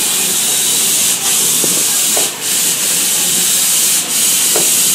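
Loud, steady hiss of rushing air from the air blowers of a foam-ball play area, breaking off briefly a few times.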